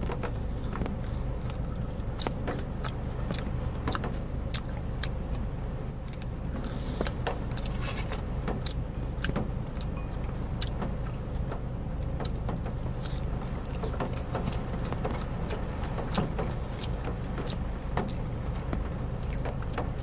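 Eating waffle fries close to the microphone: chewing and mouth sounds with many small, irregular clicks, over a steady low rumble inside a car cabin.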